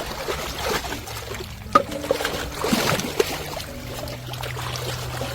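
Water trickling and splashing in small irregular bursts, with one sharp knock a little under two seconds in.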